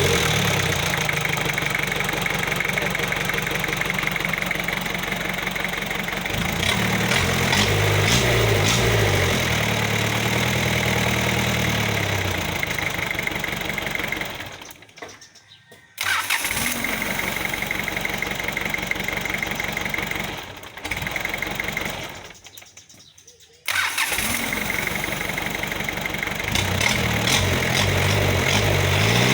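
A 4DR5 four-cylinder diesel engine running and being revved up and down several times. Twice, around the middle, it dies away and then catches again abruptly, as if shut off and restarted.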